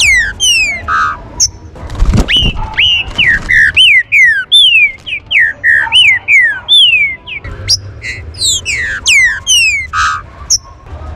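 Several green-winged saltators (trinca-ferro) singing over one another: loud, clear whistled notes, most sliding downward, with one bird repeating an arched whistle about twice a second in the middle. A brief low thud comes about two seconds in.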